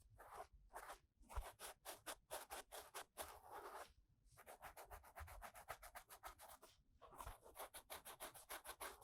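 Quiet ear-cleaning sounds on a binaural dummy-head microphone: an ear-cleaning tool rubs and scrapes inside the microphone's silicone ear. It makes quick, even strokes, about five to seven a second, with a few short pauses.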